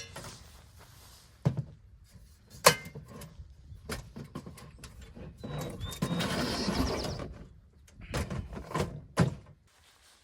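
Camping gear being handled and packed: several sharp thuds and knocks, the loudest about a third of the way in, with a couple of seconds of rustling and scraping in the middle.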